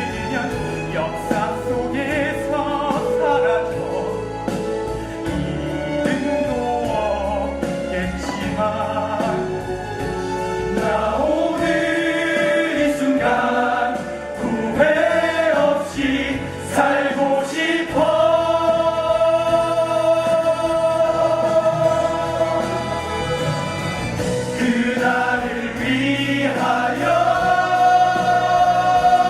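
A group of voices singing together as a choir over instrumental accompaniment, with long held notes in the second half.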